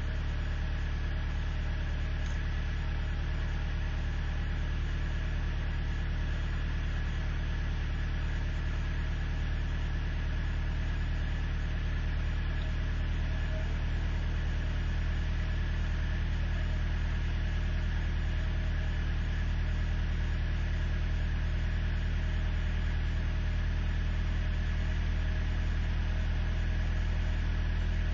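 Truck engine idling steadily just after a hard cold start at six below zero.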